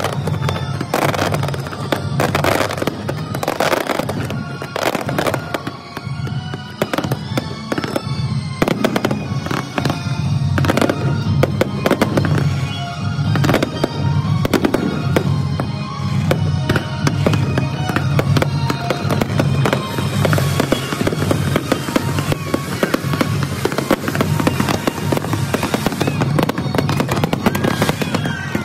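Aerial fireworks bursting in quick succession, with music playing underneath. About twenty seconds in, the separate bangs give way to a dense, continuous crackle.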